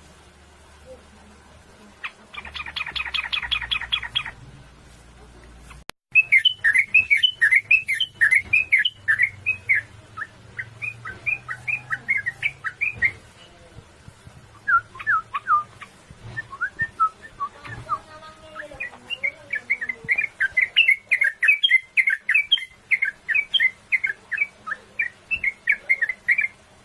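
Yellow-vented bulbul (trucukan) singing its rapid rolling 'ngeropel' song: long runs of quick notes, one phrase after another with short pauses. About two seconds in there is a short buzzy rattle of about two seconds.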